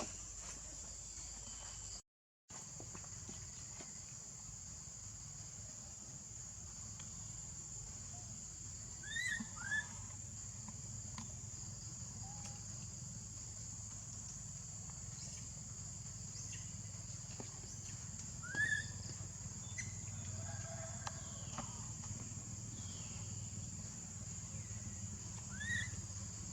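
Steady high drone of insects, broken by a handful of short, high chirping calls: a pair about nine seconds in, one past the middle and one near the end.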